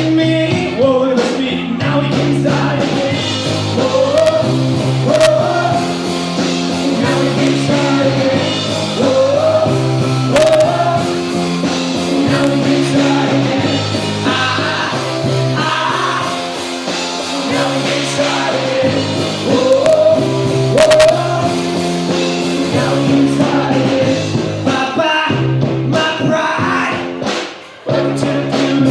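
Rock song with a singer over guitar and a bass line repeating a stepped pattern; the music dips briefly near the end.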